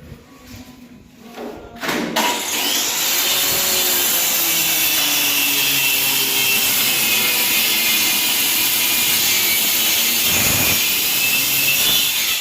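Electric power saw cutting a wooden board, most likely plywood. It starts suddenly about two seconds in, runs at a steady pitch through the cut, and stops just before the end.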